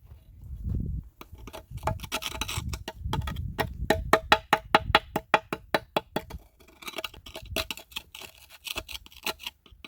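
A rapid, irregular run of short strokes on a cast-iron plate, several a second and densest in the middle, each with a brief metallic ring.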